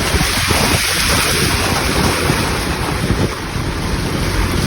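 Strong wind buffeting the microphone: a steady, loud rush with a gusty low rumble.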